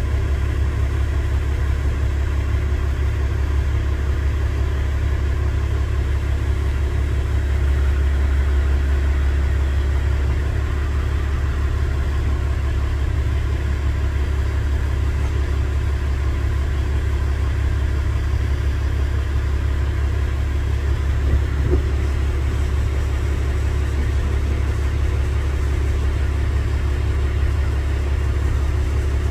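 Motor vehicle engine idling, a steady low rumble that does not change.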